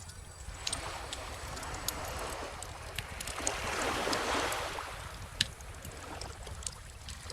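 Crackling bonfire with scattered sharp pops, one louder pop about two-thirds through, over calm ocean waves; one wave swells and washes out around the middle, with a low steady rumble of surf beneath.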